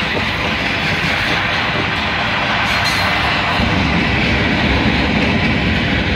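Covered hopper cars of a freight train rolling past, with a loud, steady noise of steel wheels running on the rails.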